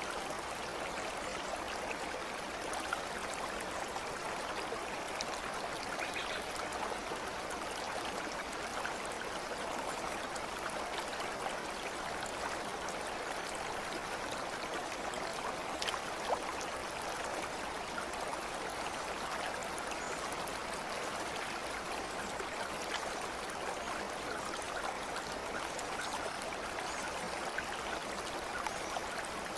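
Steady running water of a babbling stream, an even rushing and gurgling, with a few faint ticks now and then.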